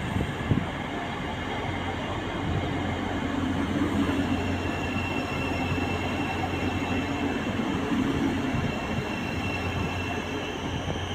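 Electric multiple-unit passenger train moving past along the platform: a steady rolling rumble of wheels on rail with a low electric hum that strengthens through the middle.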